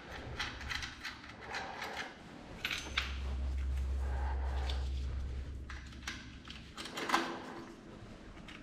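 Metal tools and pump parts being handled, making irregular clinks and knocks, over a low hum that swells in the middle and fades out near the end.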